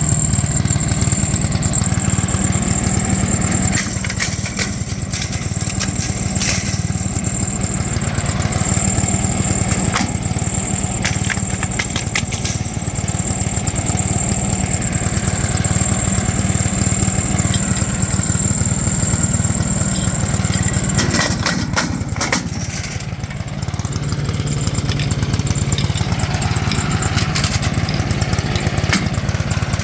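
Gas-engine wood chipper running steadily, with sharp knocks and cracks at intervals as material goes through it. Around two-thirds of the way in a cluster of knocks comes with a brief dip in the engine's level as it takes the load.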